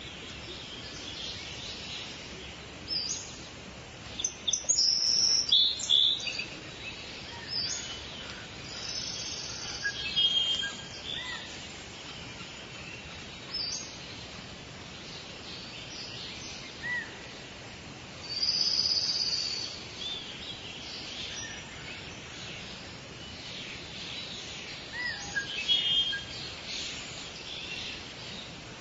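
Several forest birds chirping and calling over a steady background hiss, with a dense burst of calls about five seconds in and a longer call near the middle.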